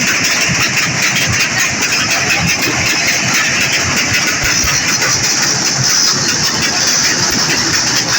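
Vehicle engine running loudly and steadily, with no clear rise or fall in revs.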